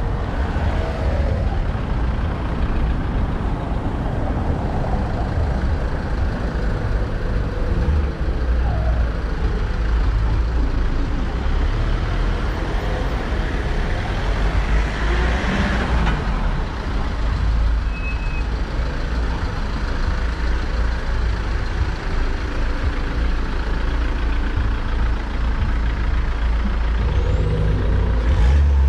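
Motor vehicle engines running on a narrow cobbled street, over a steady low rumble, with a louder swell about halfway through.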